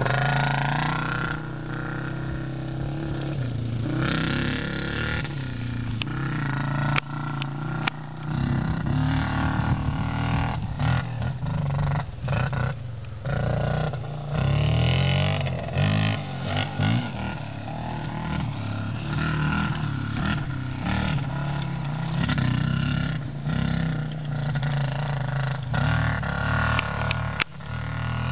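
Motorcycle engine running under way, its pitch rising and falling with the throttle, over a steady rush of noise, with a few short knocks.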